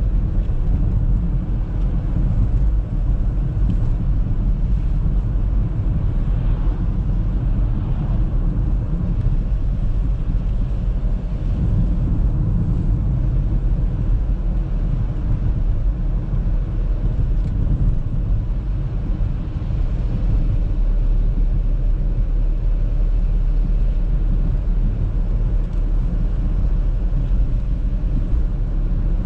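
Audi A3 driving on the road: a steady low rumble of tyre and engine noise.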